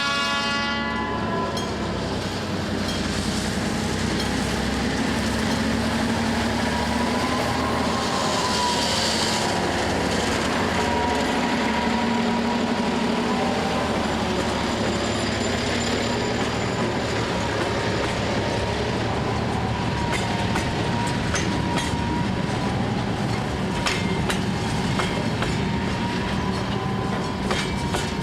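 Diesel freight train passing close by. The horn's last blast cuts off about a second in, then the locomotive and wagons roll past steadily with a thin wavering squeal from the wheels. In the last several seconds the wheels click over rail joints.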